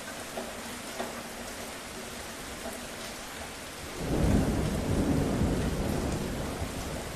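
Steady rain hiss, with a roll of thunder that breaks in about four seconds in and rumbles low before slowly fading.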